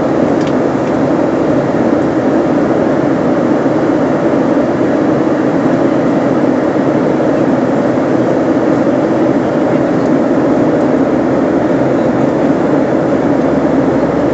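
Steady drone of an airliner's engines and rushing air, heard inside the passenger cabin.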